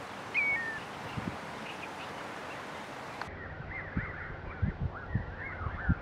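Wild birds calling: a single short two-note call, the second note lower, about half a second in. A little past halfway the sound changes abruptly to continuous twittering of small birds, with scattered low buffets of wind on the microphone.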